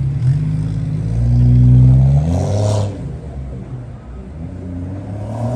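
Car engine being revved: the pitch climbs over about two seconds to a loud peak, then drops back with a short crackle, and it climbs again briefly near the end.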